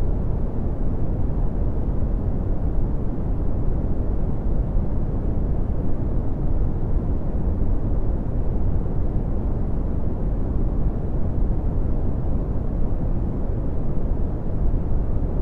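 Steady red (Brownian) noise: an even, deep rumbling hiss, strongest in the low end and fading toward the highs, with no change throughout.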